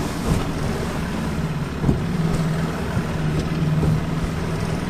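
Boat's outboard motor running steadily while the boat rides through rough water. Two sharp thumps of the hull hitting waves come just after the start and about two seconds in.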